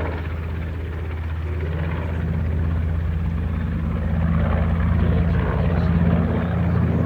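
B-25 Mitchell bomber's twin Wright R-2600 radial engines running steadily in flight, growing gradually louder over several seconds.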